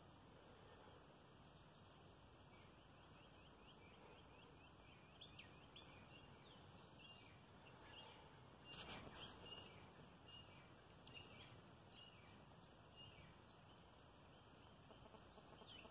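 Faint outdoor ambience with many short, high bird chirps repeating throughout. A brief rustling noise comes about nine seconds in.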